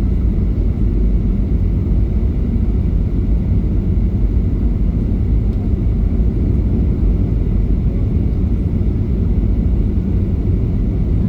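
Steady low rumble inside the cabin of a Boeing 737-800, from its CFM56-7B engines and the airflow around the fuselage, with no distinct events.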